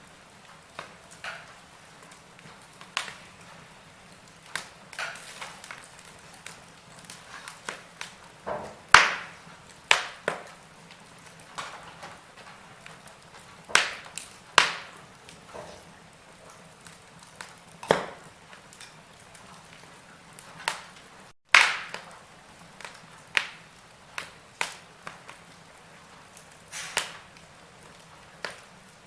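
Wood fire in a fireplace crackling, with irregular sharp pops and snaps over a low steady hiss; a few pops are much louder than the rest. The sound cuts out for an instant about two-thirds of the way through.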